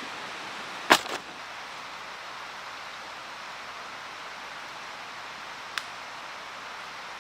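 Steady rushing of a flowing mountain stream, with one loud sharp crack about a second in, a smaller one just after, and a faint tick near six seconds.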